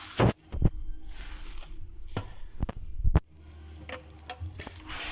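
A handful of sharp metallic clicks and knocks, spread unevenly, from a cast-iron stove being handled, likely its rear secondary-burn adjustment handle being worked.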